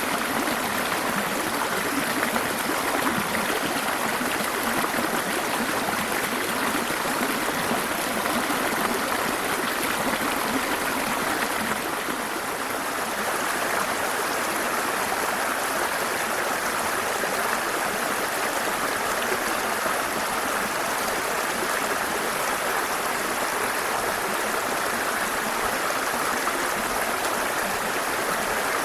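Waterfall and stream water rushing steadily, dipping slightly in level about twelve seconds in.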